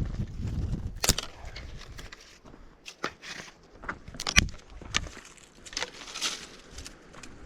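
Wood fire crackling, with a handful of sharp, separate pops.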